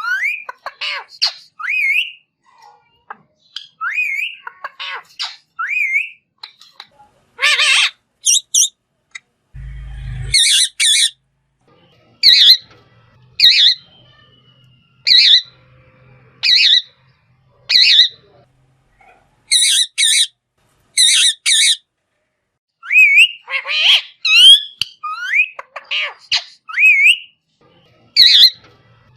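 Green parrot calling over and over: short harsh squawks mixed with rising whistled notes, in runs with short gaps between them.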